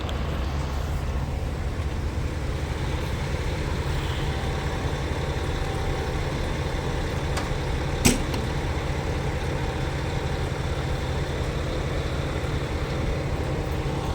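Steady low rumble of a large vehicle's engine idling, with one sharp click about eight seconds in.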